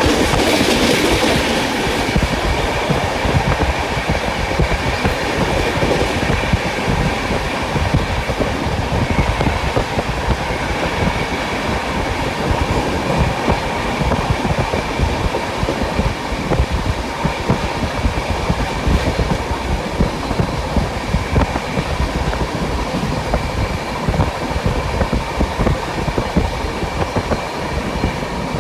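Express train's passenger coach running along the track: a steady rumble of wheels on rail with a constant stream of clickety-clack from rail joints, and a faint steady high whine over it.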